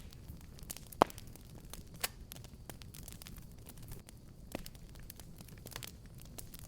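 Fireplace fire crackling: irregular sharp pops and snaps over a low steady rumble of flames, the loudest pop about a second in.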